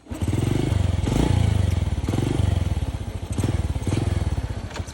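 Small motor vehicle's engine running, a rapid even pulsing that comes in abruptly at the start and holds steady with a slightly wavering pitch.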